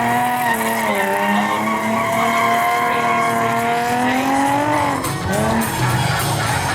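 Nissan 350Z drifting, its engine held high in the revs with the pitch wavering and dipping briefly about four to five seconds in, over tyre squeal.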